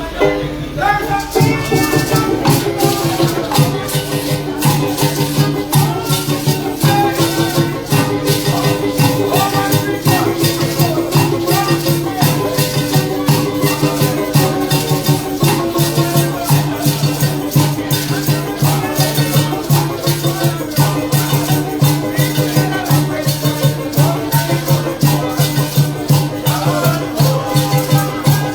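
Parang band playing a lively Christmas tune: maracas shaking a fast, even rhythm over stringed instruments and a bass line, which comes in about a second in.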